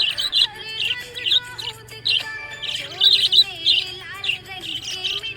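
Budgerigars chirping in quick, bright bursts, several a second, over background music.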